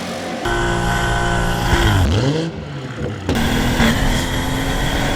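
Turbocharged B58 inline-six of a BMW 540i (G30) running under acceleration. Its pitch holds steady, then drops and climbs again twice around two seconds in, as at gear changes. The sound changes abruptly twice where one clip gives way to the next.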